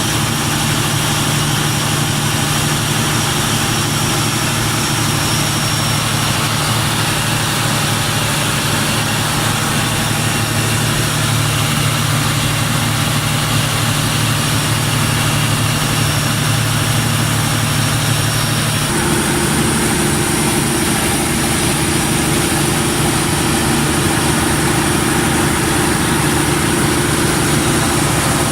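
Mitsubishi 600 kW diesel generator running, a loud, steady drone. Its tone changes abruptly about two-thirds of the way through.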